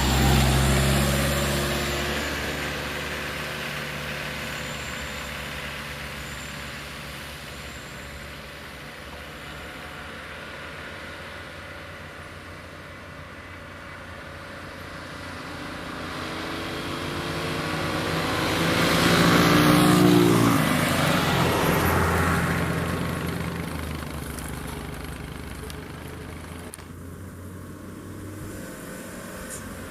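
Motor vehicles driving past on a highway: engine and tyre noise is loudest right at the start and dies away, then a second vehicle approaches, passes with its engine pitch bending down about twenty seconds in, and fades off.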